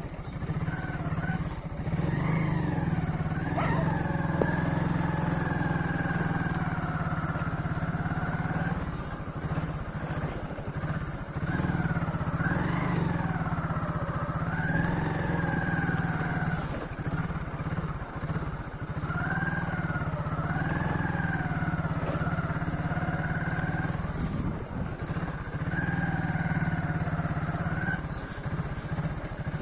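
Motorcycle engine running steadily while being ridden. A wavering, melodic pitched line, like a voice or instrument, comes and goes over it in phrases a few seconds long.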